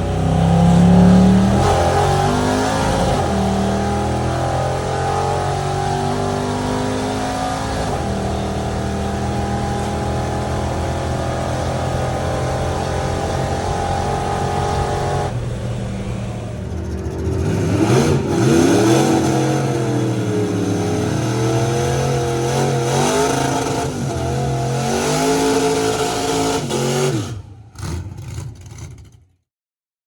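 A vehicle engine running loud and revving, its pitch sweeping up and down. The sound changes abruptly about halfway through, then dies away and stops just before the end.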